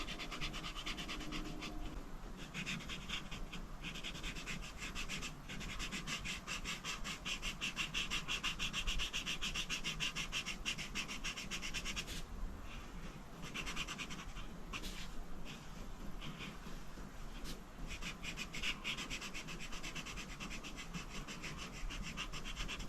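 A coloring tool scratching across paper in rapid back-and-forth shading strokes, with a few brief pauses about midway.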